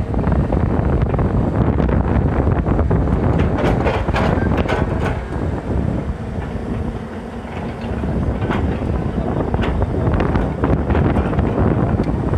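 Eicher 380 tractor's diesel engine running hard under a heavy load, with wind buffeting the microphone. The level sags briefly about six to eight seconds in, then picks up again.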